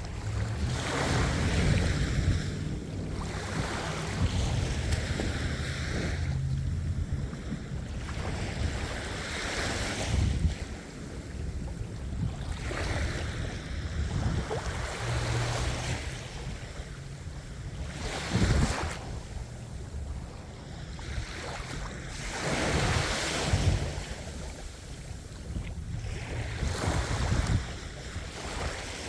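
Sea waves breaking and washing in, swelling and fading every few seconds, under a steady low rumble of wind buffeting the microphone.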